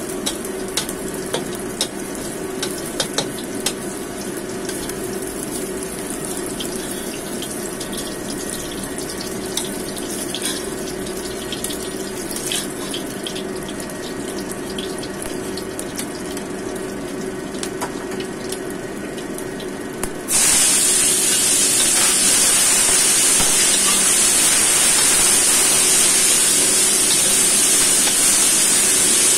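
A metal spatula clicks and scrapes against a nonstick wok over a low frying sizzle. About two-thirds of the way through, a sudden loud, steady sizzle starts as chopped beef tripe fries in hot oil.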